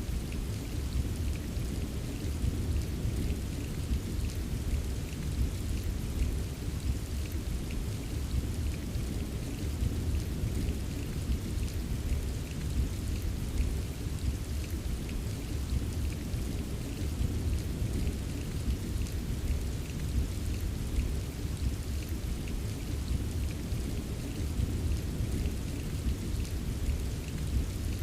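Steady rain with faint, scattered raindrop ticks over a deep, continuous low rumble of distant thunder.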